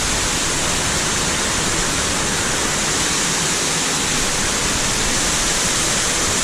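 An underground waterfall splashing down inside a cave passage, a loud, steady rush of water with no let-up.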